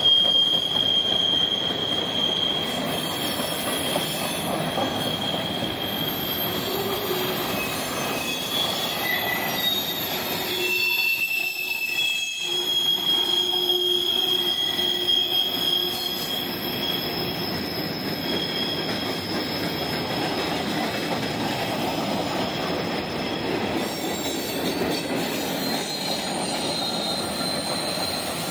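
Freight cars, mostly empty coal hoppers, rolling past close by. The steel wheels keep up a steady rumble on the rail, with high wheel squeals that come and go. The rumble drops out briefly about eleven seconds in.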